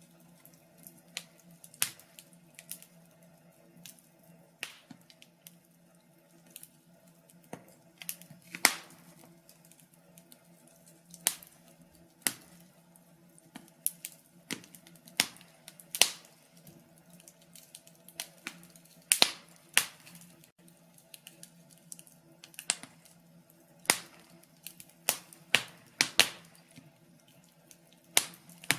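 Wood fire crackling in a fireplace: irregular sharp pops and snaps from the burning logs, a few much louder than the rest, over a quiet background.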